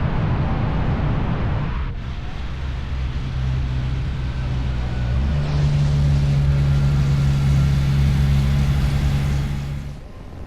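Motorcycle engine running on the move with wind rush. The wind noise drops away suddenly about two seconds in, leaving a steady engine drone whose pitch steps up about five seconds in. The sound cuts off abruptly near the end.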